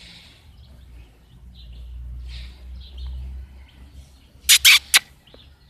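Birds chirping faintly in the background, with a soft low rumble in the middle; about four and a half seconds in, three short, sharp sounds come in quick succession.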